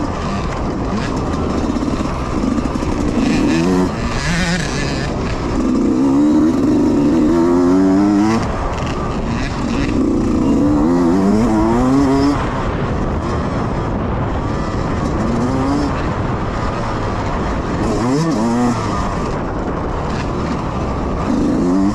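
Youth dirt bikes racing on the course, their small engines revving up through the gears several times as bikes accelerate past, over a constant din of other bikes running.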